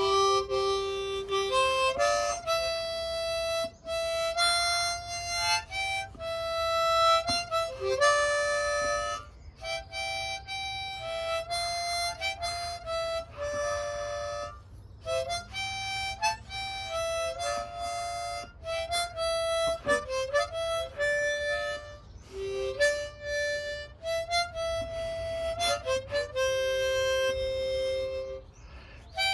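Harmonica playing a tune: a melody of held notes, some sounded two at a time, with short breaks between phrases.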